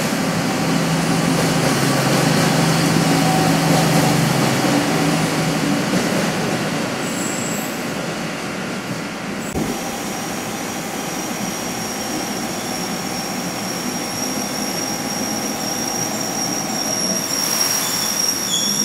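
Long-distance passenger train moving slowly along a station platform, a steady run of wheel and engine noise with low hum. After a sudden cut, a KRL commuter electric train stands at the platform amid station noise, with a thin, steady high whine.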